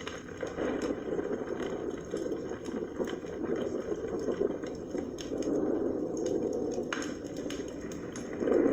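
Wood fire burning in a large fireplace: a steady low rush of flame with scattered sharp crackles and pops, growing louder near the end.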